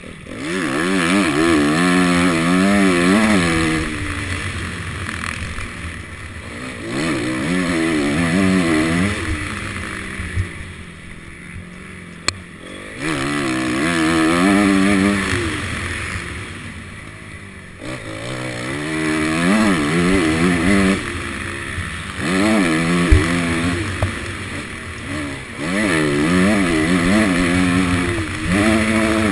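Honda CRF250 dirt bike's single-cylinder four-stroke engine heard from the rider's helmet, opening up and closing the throttle again and again: about five bursts of rising and falling revs with quieter off-throttle lulls between, over steady wind rumble on the microphone.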